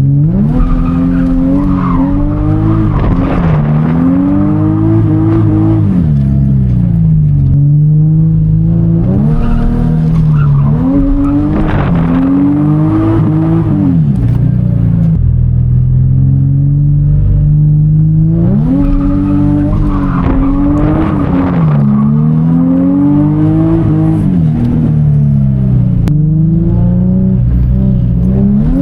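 Infiniti G35 drift car's 3.5-litre V6 revving up and falling back again and again, with tyres skidding as the car drifts.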